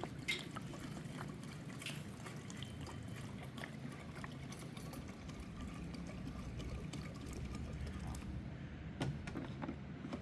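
Liquid being poured and trickling, with scattered light clicks and a sharper click just after the start.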